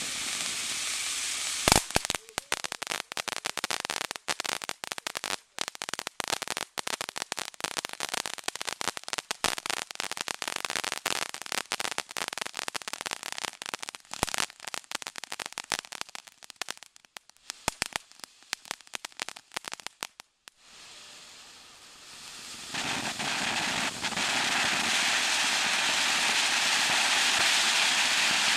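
Shower firework hissing, then a sharp bang about two seconds in, followed by dense rapid crackling for nearly twenty seconds that stops abruptly. After a short lull a steady hissing spray starts up and builds.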